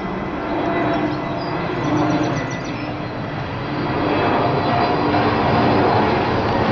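Airbus A320 jet airliner's engines, a steady rumble with a faint whine that grows louder from about halfway through as the plane comes closer.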